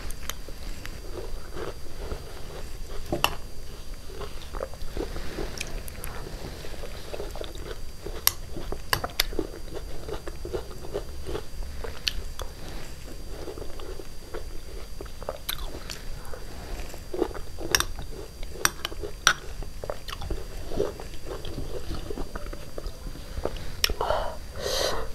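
Wet chewing and smacking while eating a fruit salad of grapes and muskmelon in curd, with scattered sharp clicks of a metal spoon.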